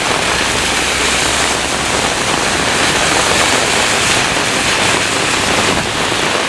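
Heavy rain pouring down in a severe thunderstorm: a loud, steady hiss of rain, with a low rumble of wind on the microphone.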